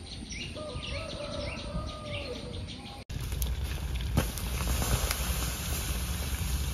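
Small birds chirping in short, repeated calls for about three seconds, over a held tone. Then a sudden cut to a steady rushing noise with a low rumble and a few sharp clicks.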